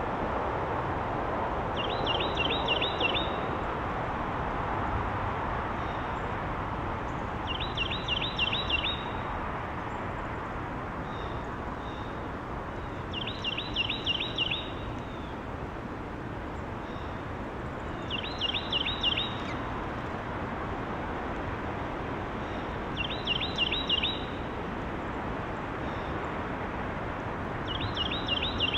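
A songbird sings the same short song of quick, high, down-slurred notes about every five seconds, six times in all. A steady background hum of outdoor noise runs beneath it.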